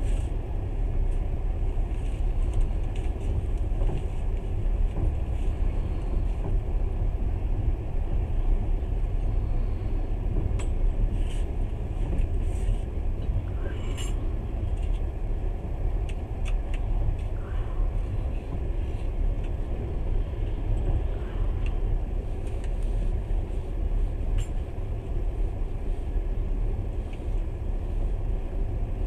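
Steady low rumble of a moving passenger train, heard from inside the carriage, with a few faint scattered clicks.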